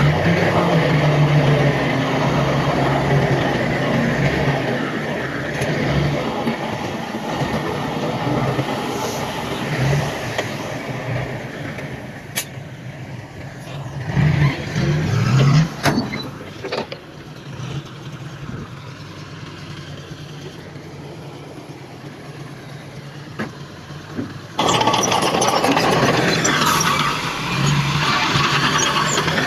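Heavy diesel construction machinery running, with a steady low engine drone, some sharp knocks partway through, and a sudden step up to a louder running sound about 25 seconds in.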